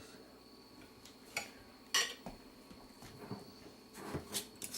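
A few sharp clinks and knocks of a pickle jar being handled as someone tries to twist off its lid, which is sealed tight; the loudest knock comes about two seconds in, with a quick cluster near the end.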